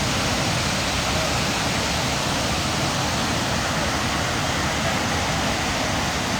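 Steady rushing of fast-flowing water, an even unbroken roar.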